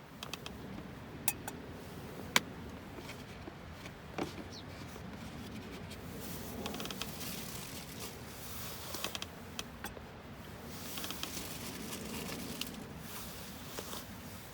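Rustling and scraping handling noises with scattered sharp clicks and taps, the loudest two in the first few seconds.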